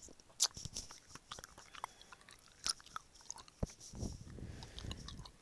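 Close-up mouth sounds of a person biting and chewing gummy candy strands: scattered sticky clicks and smacks, thickening into steadier chewing about four seconds in.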